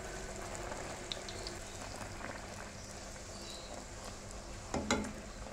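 Puri deep-frying in hot ghee: a steady sizzle with scattered small crackles and pops as a slotted spoon presses it down. A sharp knock about five seconds in is the loudest sound.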